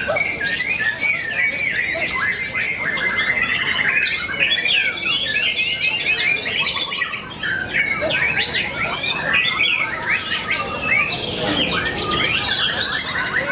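Many caged songbirds singing at once in a dense, unbroken chorus of rapid chirps, trills and sweeping whistles, with harsh squawky notes mixed in.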